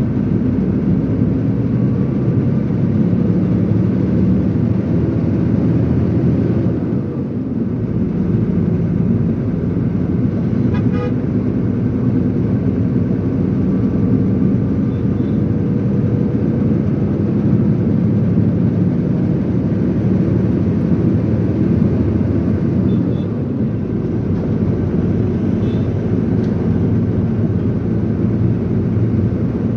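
Truck engine running steadily under way, with road noise, dipping briefly twice.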